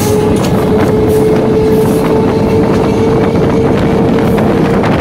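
Electric multiple-unit local train running at speed, heard from on board through an open window or doorway: a steady loud rumble of wheels on rail with a steady whine and a few faint clicks.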